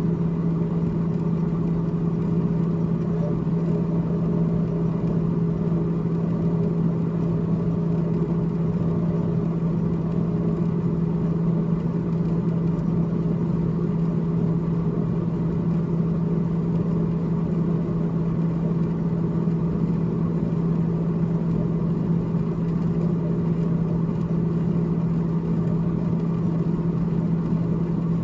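The freezer evaporator fan of a GE GTH18XCTZRBB refrigerator running with a steady, unchanging hum.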